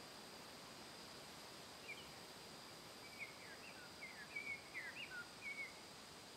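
Faint outdoor ambience with a steady high hiss. About two seconds in a small bird chirps, and a second later it sings a short twittering phrase of quick chirps lasting a couple of seconds.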